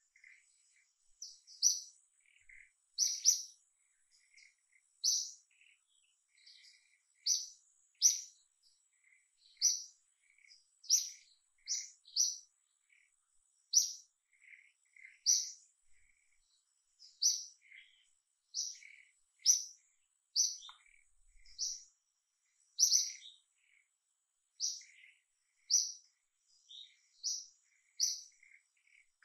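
Small birds chirping: short, high-pitched chirps repeated about once a second, often in quick pairs, with softer lower notes in between.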